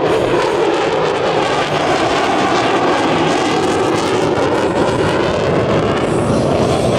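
Lockheed Martin F-35B jet flying a high-speed pass, its F135 turbofan engine loud and steady throughout.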